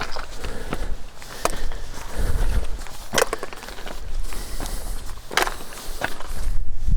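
Hiker's footsteps on a mountain trail: irregular scuffs and crunches, the sharpest about every two seconds, with a low rumble now and then.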